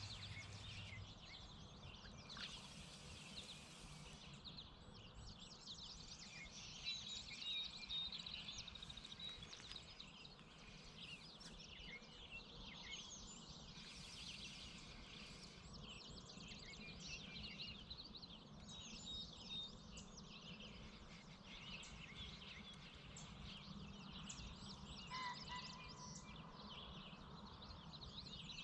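Faint dawn chorus of many small birds chirping and trilling at once, over steady low background noise.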